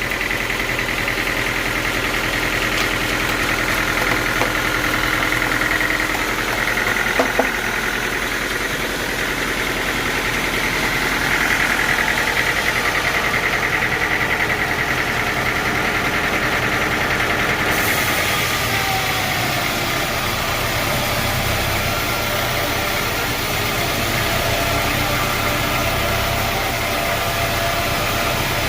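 Sawmill machinery running steadily: an engine drone with a steady high whine over it, and two brief knocks about seven seconds in.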